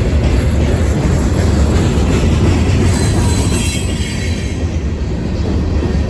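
A train rolling past with a loud, steady rumble of wheels on the rails. A faint high wheel squeal comes in about halfway through.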